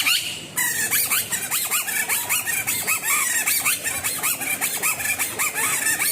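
Kathputli puppeteer's reed whistle (boli) making the puppets' squeaky, chattering voices: a quick string of short rising and falling squeaks, over a fast, even patter of clicks.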